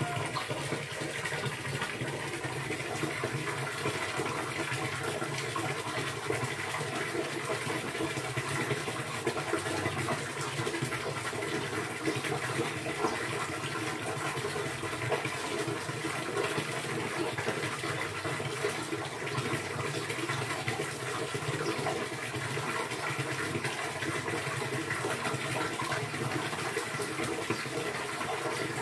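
Water running and splashing steadily, a continuous even rush with no breaks.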